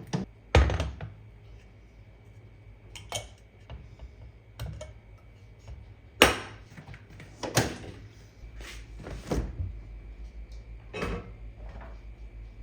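Kitchen handling sounds: about eight separate knocks and clinks of dishes, cups and utensils being picked up and set down on a counter, over a faint steady hum.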